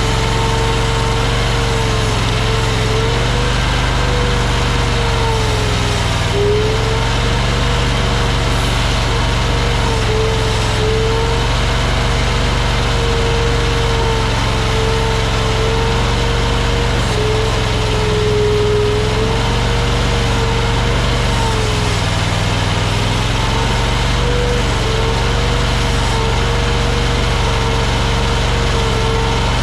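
Small AGT Industrial LRT23 mini skid steer engine running steadily under work, with a humming tone that dips and rises slightly in pitch now and then as the load changes.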